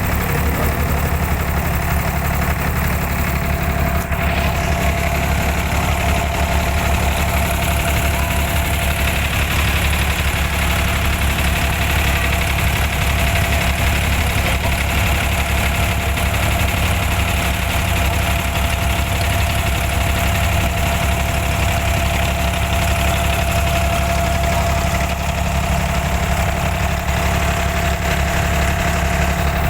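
Boat engine running steadily at a constant speed, a loud low hum with an even drone.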